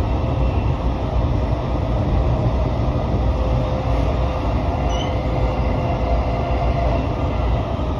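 Running noise of a JR Musashino Line electric commuter train heard from inside the carriage at speed: a steady low rumble of wheels on rails with a faint steady whine above it.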